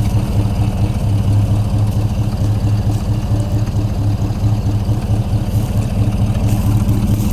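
1959 truck's 327 cubic-inch small-block V8 idling steadily and evenly, running smooth.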